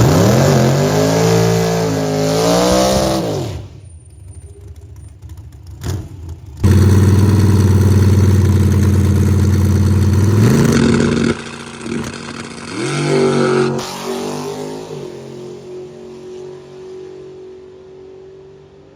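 Drag-racing car engines revving hard and accelerating, in several short clips cut together. About a third of the way in, one engine holds a steady high rev for a few seconds, then climbs. Later revs fade away near the end.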